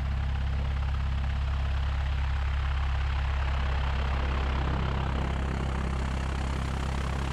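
A 1969 Cessna 172's four-cylinder Lycoming O-320 engine and propeller running steadily at low taxi power, a low drone that shifts slightly in tone about five seconds in.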